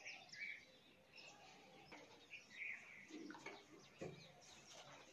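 Near silence with faint bird chirps: a scattered run of short, high calls.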